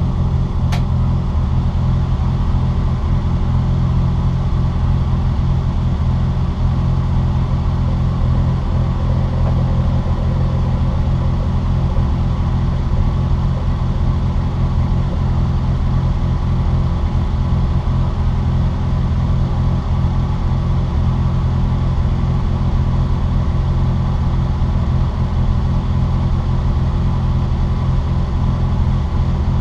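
Steady in-car drone of a Citroën Saxo VTR's engine and road noise, holding an even pitch with no revving up or down, and heavy low rumble.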